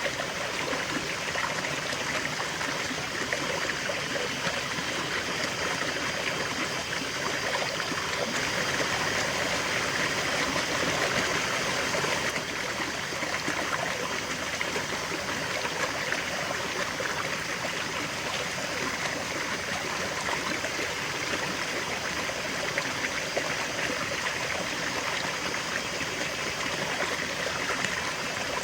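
River water flowing steadily over stones, a continuous rushing and babbling with no breaks.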